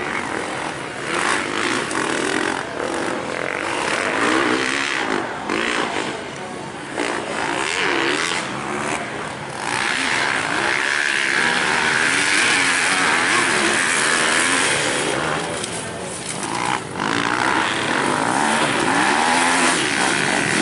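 Several motocross bike engines revving, their pitch rising and falling over and over as the riders work the throttles, with a denser, louder engine noise through the middle.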